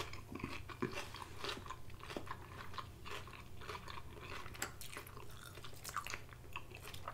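Close-miked chewing of crunchy lettuce salad: a run of small, irregular wet crunches and crackles at low level.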